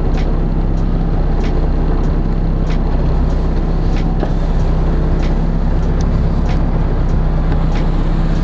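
Car engine idling steadily, a low even hum that holds the same pitch throughout.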